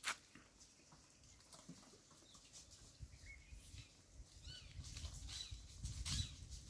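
Faint, scattered bird chirps, short and rising or falling in pitch, over a low wind rumble on the microphone, with a sharp click right at the start.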